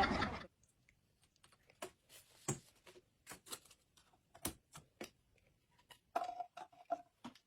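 Sparse light clicks and taps of small kitchen items being handled, such as a cup, lid and condiment tube, with a brief squeaky tone about six seconds in.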